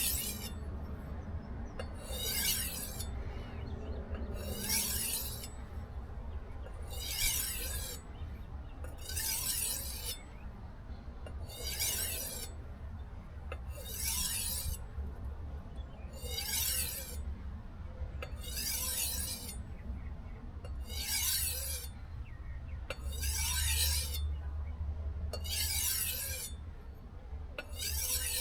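Knife edge drawn across a whetstone in light edge-refining strokes: a short, high scrape about every two seconds, evenly repeated. The pressure is being eased toward almost none to refine the edge after deburring.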